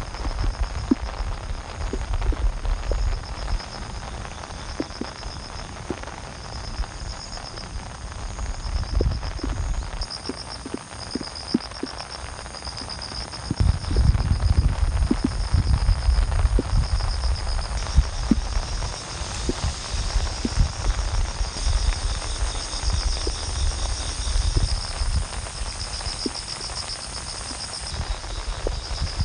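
Insects trilling high up in short repeated pulses over scattered raindrop taps and a low rumble of rain and wind, which swells about halfway through.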